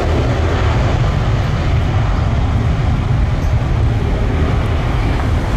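Jet airliner engines making a deep, steady rumble whose higher hiss slowly fades, as an aircraft passes and moves away.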